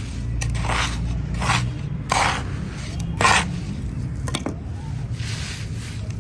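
Repeated scraping strokes, about seven at uneven intervals, over a low steady rumble.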